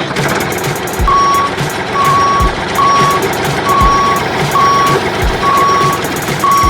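Vehicle reversing alarm beeping, a short single-pitched beep repeating about every second, seven times, starting about a second in, over steady engine-like noise.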